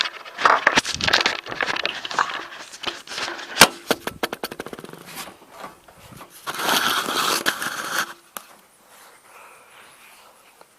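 Aerosol can of starting fluid being handled, with clicks and rattling, then sprayed in a hiss lasting about a second and a half into the tractor's air breather before a cold start. No engine running or cranking is heard.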